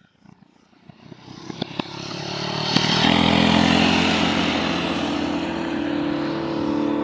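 An engine running, swelling up from quiet over the first three seconds or so and then holding steady and loud.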